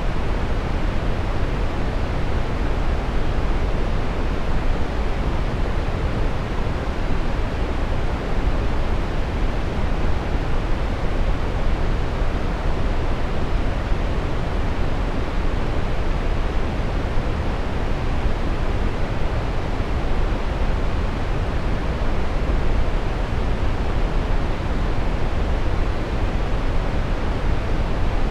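Steady brown noise: an even, unchanging rushing hiss weighted heavily toward the bass, with little treble.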